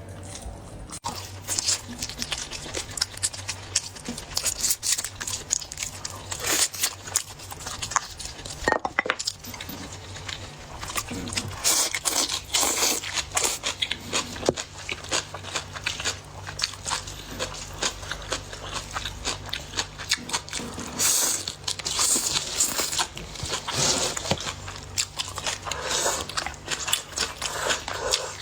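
Close-miked eating of bone marrow: continuous wet chewing and biting, with many quick crunches, clicks and squishes.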